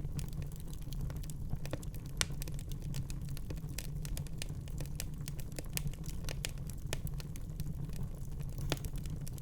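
Wood fire burning in a fireplace: a steady low rumble of the flames with frequent irregular crackles and a few louder pops.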